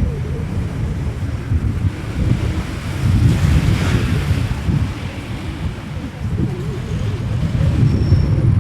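Wind buffeting the microphone, a loud gusting rumble, with a broader hiss that swells and fades about three to five seconds in.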